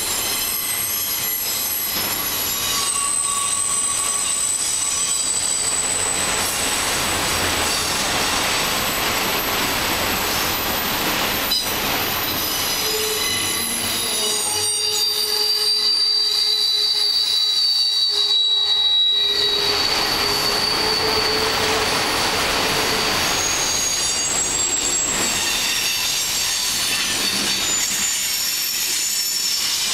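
Passing freight train, its car wheels squealing on the rails: several high, steady squeals that come and go and shift in pitch over a constant rolling rumble.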